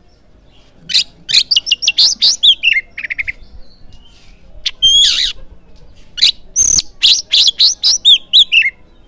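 Oriental magpie-robin (kacer) singing loud, rapid runs of sharp, high whistled notes, many sliding downward. The song comes in three quick bursts separated by short pauses.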